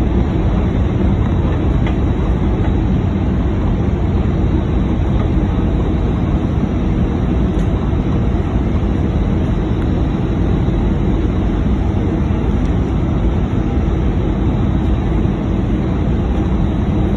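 Airbus A319 cabin noise in flight on approach: a steady low roar of the engines and rushing air heard from inside the cabin, with a faint steady hum beneath it.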